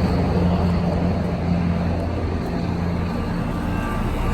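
Central air-conditioner outdoor unit running: a steady low compressor hum under the rushing of its fan.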